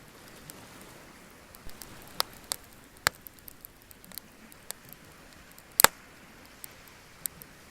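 Wood bonfire crackling: irregular sharp pops and snaps over a faint steady hiss, the loudest pop about six seconds in.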